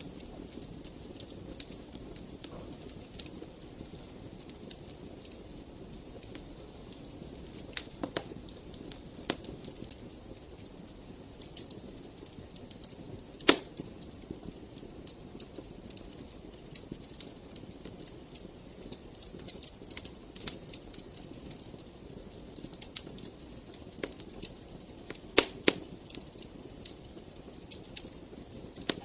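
Wood fire crackling in a fireplace: irregular sharp pops and snaps over a soft steady hiss, with a few louder pops about halfway through and again near the end.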